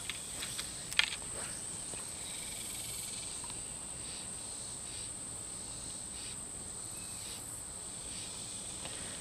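Insects trilling outdoors: one steady, unbroken high-pitched tone, with a single short click about a second in.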